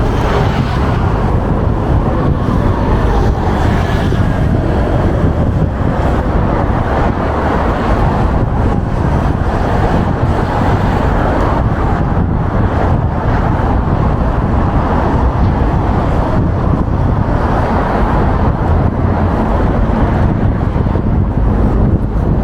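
Steady city street traffic noise with wind rumbling on the microphone. In the first few seconds a passing vehicle's sound falls in pitch.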